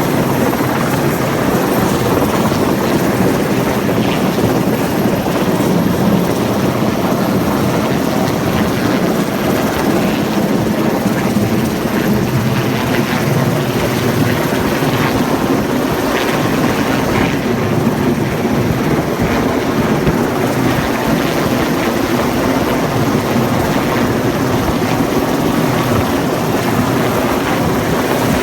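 Helicopter rotor and engine running loudly and steadily, a dense churning noise that holds level throughout.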